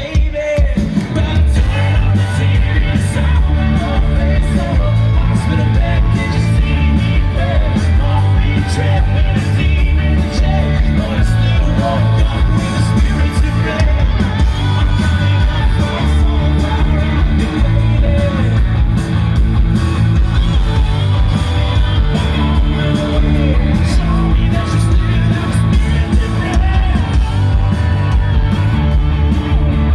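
Rock band playing live through a concert PA, with distorted guitars, bass, drums and a lead singer, heard loud and boomy in the bass.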